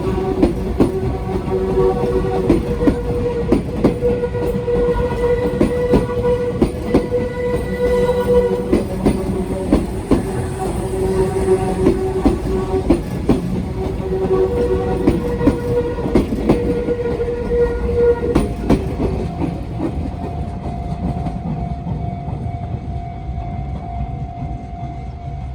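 A Sotetsu Line train passing over a turnout, its wheels clacking loudly and rapidly on the rail joints. A level crossing warning bell rings steadily at the same time. The clacking and the bell stop about 19 seconds in, leaving a fading rumble with a steady whine.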